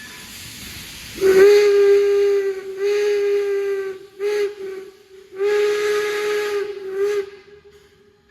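Steam locomotive No. 26's whistle blowing the grade-crossing signal, long, long, short, long, over a soft hiss of steam. The whistle stops shortly before the end.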